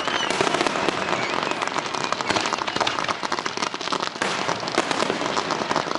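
Fireworks crackling: a dense, continuous run of small rapid pops and sizzles, with no single big boom standing out.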